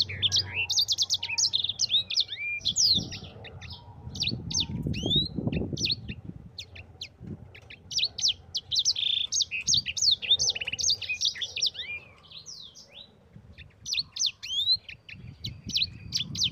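Sanger, a canary-type finch, singing a fast, rolling song of rapid chirps and sweeping whistle notes in long phrases, with short pauses between them. A low rumble sits under the song around four seconds in.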